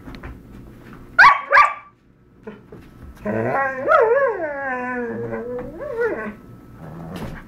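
Dog barking twice in quick succession, then a long drawn-out vocal call of about three seconds whose pitch wavers up and down, howl-like, with a short call at the end.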